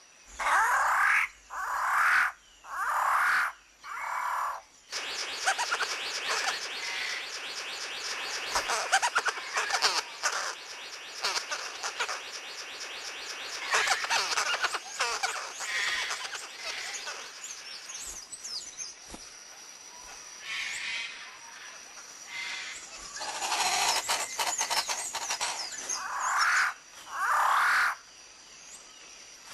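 Rainforest birds calling: four loud calls of about a second each, then a dense chorus of rapid chirps and trills, and two more loud calls near the end.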